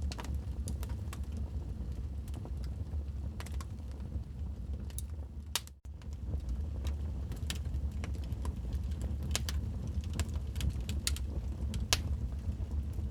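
Wood fire crackling in a fireplace: irregular sharp pops and snaps over a steady low rumble of the flames. The sound cuts out for a split second a little before halfway, then carries on.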